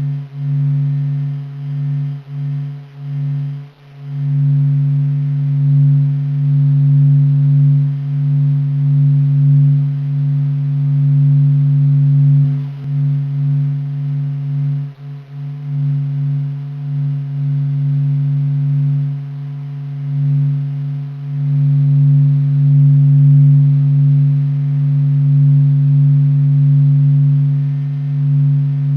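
Sonified 'sound of the Sun', a deep steady hum with fainter overtones above it. It swells and dips in loudness and drops out briefly a few times in the first few seconds and again about halfway through.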